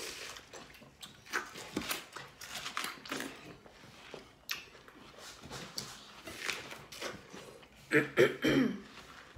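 Two people biting and chewing mouthfuls of juicy watermelon flesh, with scattered wet crunches. A short muffled vocal sound through a full mouth comes about eight seconds in and is the loudest moment.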